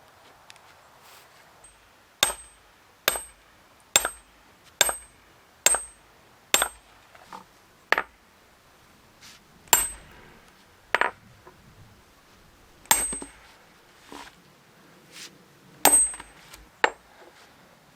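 Hardwood firewood being split by hand. Sharp blows come in a quick run of about six, a little under a second apart, then scattered single blows. Each is a hard knock with a metallic ring.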